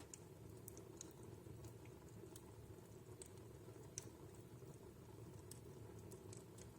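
Faint crackling of a wood fire in a fireplace: scattered small irregular pops over a low steady hiss of the flames, with one sharper pop about four seconds in.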